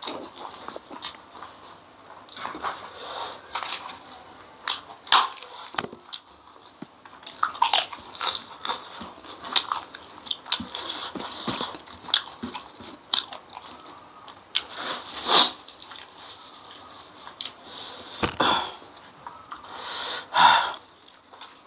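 Close-miked eating: irregular biting, crunching and wet chewing on spicy chicken feet and fried noodles, with a few louder bursts near the end.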